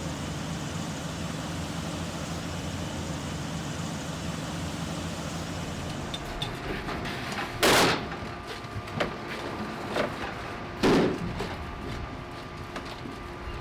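A steady engine drone with an even low hum. About six seconds in the sound changes to scattered knocks and clatter, with two loud, short bursts of hissing noise about three seconds apart.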